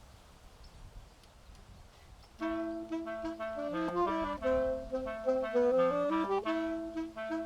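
Woodwind trio of flute, clarinet and saxophone starting to play together about two and a half seconds in, sustained notes in three parts moving stepwise. Before that there is only a low rumble of wind on the microphone.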